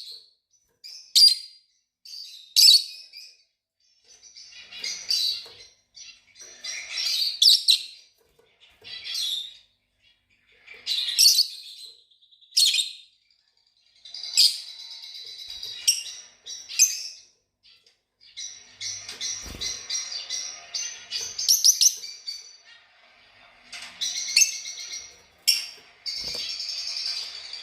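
Fischer's lovebirds chirping shrilly: short separate calls at first, then denser, nearly continuous chatter from about two-thirds of the way in.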